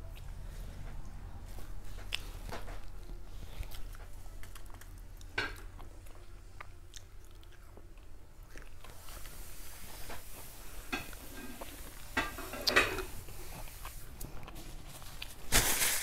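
A person chewing food close to a clip-on lavalier microphone, with scattered small clicks and crunches of the mouth and food. A louder crackly bite comes about 13 seconds in.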